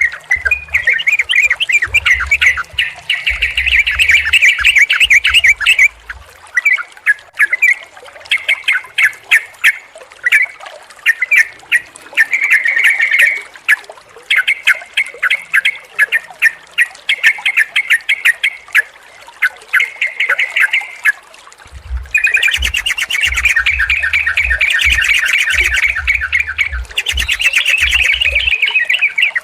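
Yellow-vented bulbuls (trucukan) chattering in fast runs of short, sharp notes, broken by brief pauses and growing busier and louder near the end. A low hum sits under the calls in the first few seconds and again near the end.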